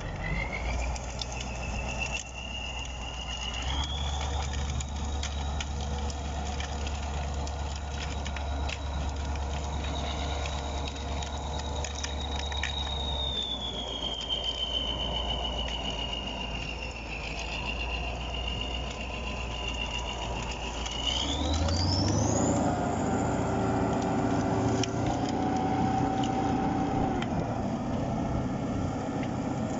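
Heavy diesel tractor engine working under load, with a high whine that rises and falls with the engine speed. About 21 seconds in the engine revs up and runs louder, and the whine climbs steeply.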